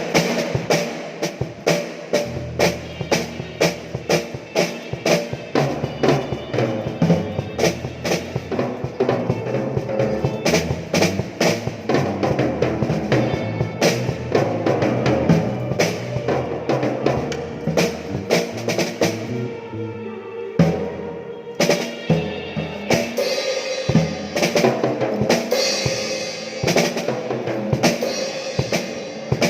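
Live drum kit playing a steady beat on bass drum and snare, with a bass line underneath; the low bass drops out briefly about two-thirds of the way through.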